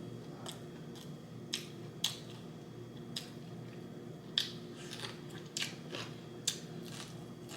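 A person chewing food close to the microphone, with a scattering of short, crisp, wet mouth clicks and smacks every half second to second.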